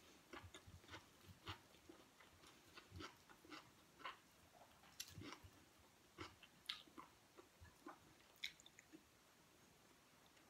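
Faint chewing: soft, irregular mouth clicks and smacks of someone eating a mouthful of food, thinning out near the end.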